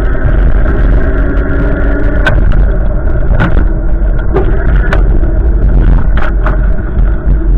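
Strong gusty wind buffeting the microphone: a loud, continuous rumble with a few sharp clicks.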